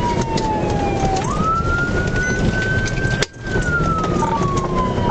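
Patrol car siren in a wail pattern, sliding slowly down in pitch, jumping quickly back up, holding, and falling again. It is heard over heavy engine and road noise during a high-speed pursuit. The audio drops out for a moment a little past halfway.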